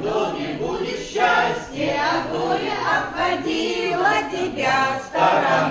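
A group of voices singing together, like a choir.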